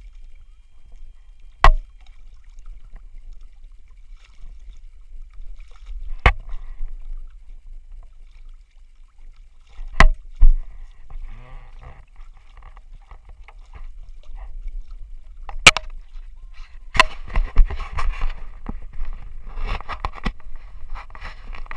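Wind rumbling low on the microphone aboard a small sailboat, broken by sharp knocks every few seconds. Near the end a choppy splashing hiss of water comes in over it.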